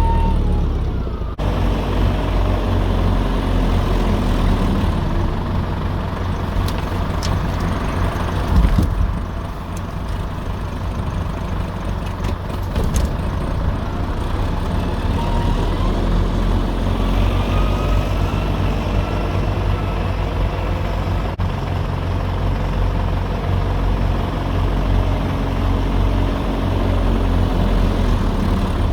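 Fordson E27N tractor's Perkins P6 six-cylinder diesel engine running steadily while it works as a muck loader, with a single loud knock about eight seconds in.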